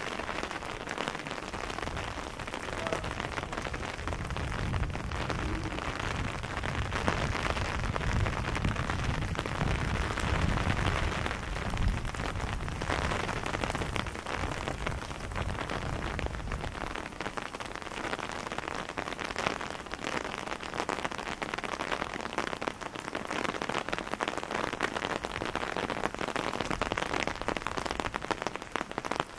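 Steady rain falling on a wet cobblestone street, with many fine drops ticking. A low rumble runs under it through the first half and fades out about halfway through.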